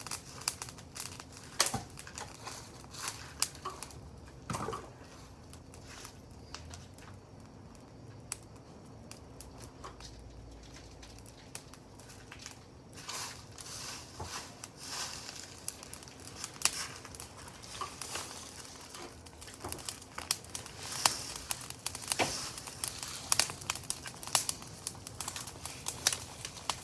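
Wood fire crackling, with irregular sharp snaps and pops that thin out for a few seconds in the middle and grow busier toward the end.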